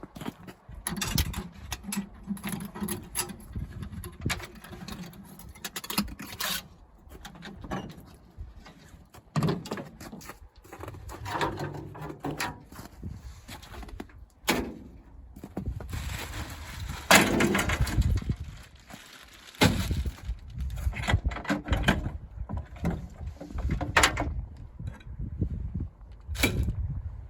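Irregular knocks, clunks and rattles, some in quick clusters and some single, with no steady engine running.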